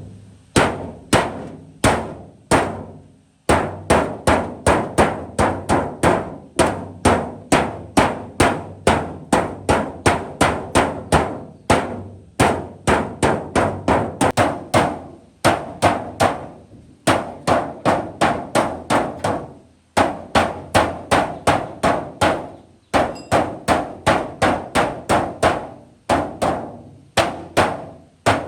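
Hammer blows on the sheet metal of a rusted truck cab, struck in quick runs of about two to three blows a second with short pauses between runs. Each blow rings briefly.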